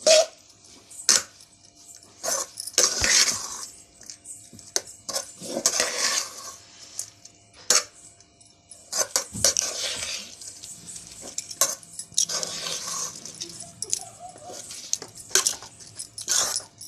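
A spoon clinking and scraping against a bowl in repeated short strokes with a few longer scrapes, mixing grated coconut into cooked ragi vermicelli.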